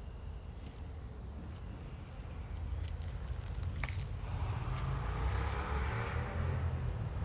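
Siamese cat purring, a steady low rumble, with a few faint clicks; from about four seconds in the sound gets louder as a rougher, rasping noise joins it.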